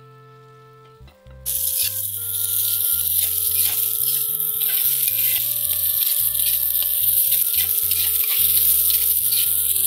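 Chopped onion, tomato and green chili frying in hot oil in a kadai, a loud sizzle that sets in suddenly about a second and a half in, with the scrape of a metal spatula stirring them. Background music plays throughout, alone before the sizzle starts.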